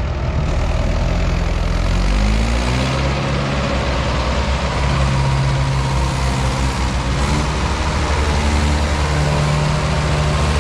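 Tractor diesel engine running, its pitch rising about two seconds in and then holding steady.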